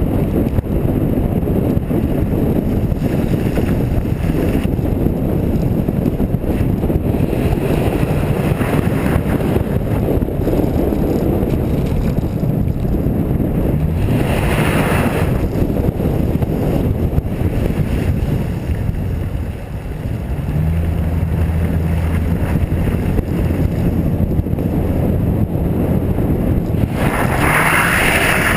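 Lincoln Town Car's V8 revving up and down as the car slides through snow, under heavy wind rumble on the microphone. A short burst of hiss comes about halfway through and again near the end.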